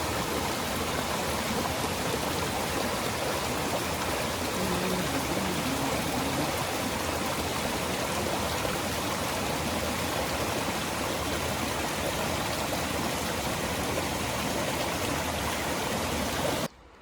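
Steady rush of a mountain stream's water over rocks, cutting off suddenly near the end.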